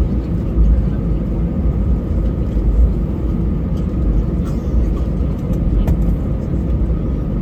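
Steady low rumble of cabin noise inside an Airbus A320, from its engines and airframe, with a few faint rattling ticks.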